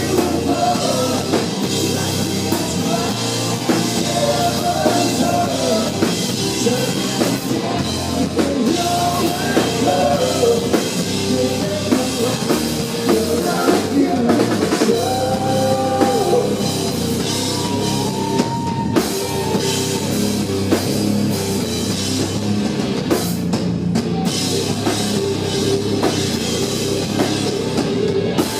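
A hard rock band playing live and loud, driven by a full drum kit.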